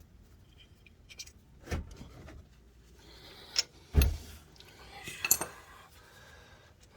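Metal hand tools clinking and knocking, a handful of sharp knocks with the loudest about four seconds in.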